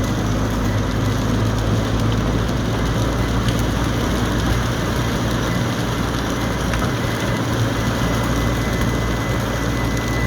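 Steady drone of a vehicle's engine and road noise heard from inside the cabin while driving in heavy rain, with rain hiss over it. A faint, steady high tone comes in during the second half.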